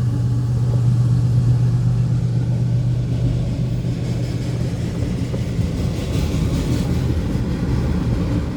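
Long freight train passing, a steady low rumble of rolling cars under a steady low engine hum that eases a little after about seven seconds.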